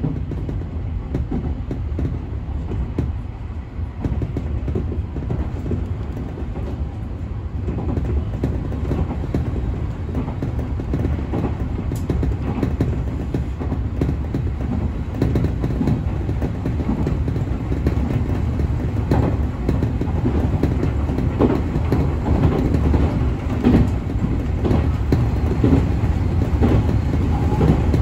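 Nankai 1000 series electric train running, heard from inside its front car: a steady low rumble with the wheels clicking over the track, the clicks coming more often and the sound growing a little louder in the second half.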